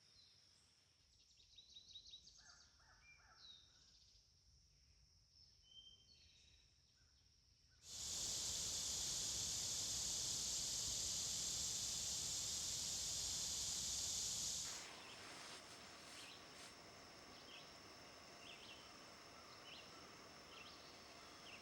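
Forest ambience: faint scattered bird chirps over a thin insect drone. About eight seconds in comes a loud, even hiss that starts and stops abruptly and lasts about seven seconds.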